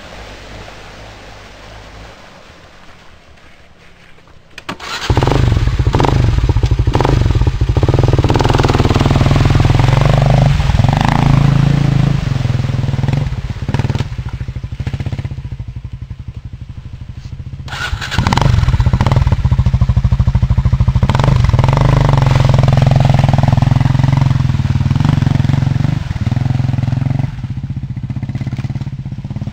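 Dual-sport dirt bike engine running loud and close, rising sharply about five seconds in, easing off for a few seconds midway, then revving hard again.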